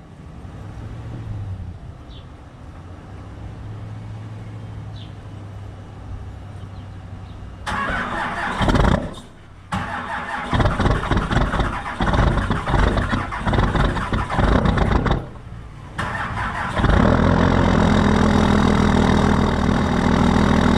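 A low engine hum, then the Dodge Cummins inline-six turbo-diesel cranking on weak batteries in a cold start without the block heater, in three tries with short pauses. About 17 seconds in it catches and keeps running steadily.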